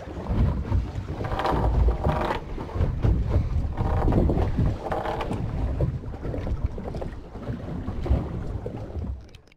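Wind buffeting the microphone on a small fishing boat at sea, a low rumble with water sounds, fading out near the end.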